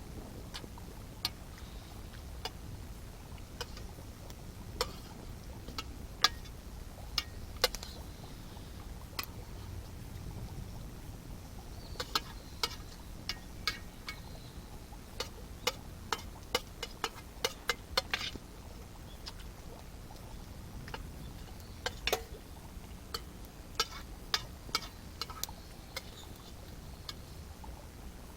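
Wood campfire crackling: irregular sharp pops and snaps, some in quick clusters, over a low steady rumble.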